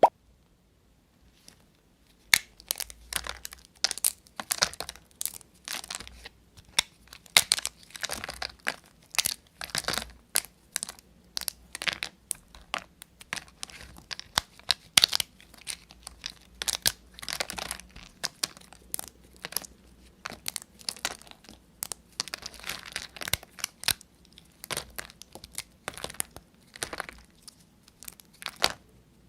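Dry bar soap being cut and crushed with a blade, giving crisp, crackling crunches several times a second in irregular strokes. A single sharp click opens the stretch, and the crunching begins about two seconds in.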